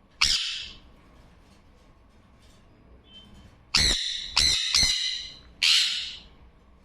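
Parrot squawking: five loud, harsh calls. The first comes just after the start, three follow in quick succession about four seconds in, and the last comes near the end.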